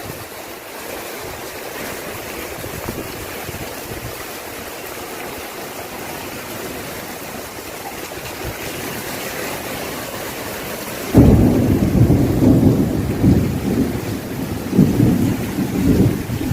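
Steady rain falling, an even hiss. About eleven seconds in, a sudden loud, gusty low rumble starts and carries on.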